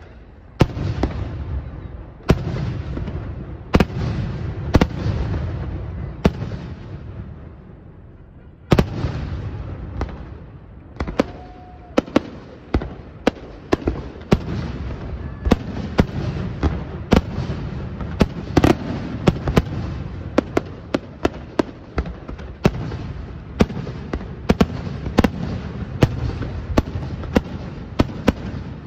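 Fireworks display: aerial shells bursting one after another, each sharp bang trailing into a rolling low rumble. The barrage dies down briefly about eight seconds in, then a heavy bang starts it again and the bursts come thicker toward the end.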